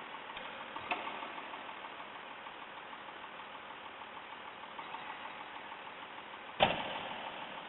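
Garbage truck engine idling steadily, with a short knock about a second in and a much louder sharp bang near the end.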